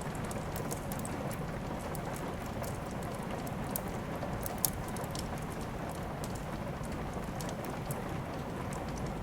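Steady rain mixed with a crackling wood fire: an even hiss under many short, sharp pops, with one louder pop about halfway through.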